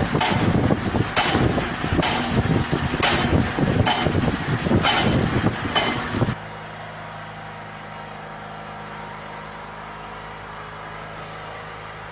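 Loud, busy mechanical noise with a knock recurring about every half second to second. About six seconds in it cuts off suddenly to a steady, quieter machine hum.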